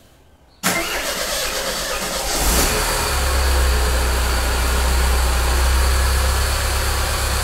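Chevrolet Corsa's four-cylinder petrol engine being started: the starter cranks it for about two seconds, it catches with a brief rise, then settles into a steady low idle.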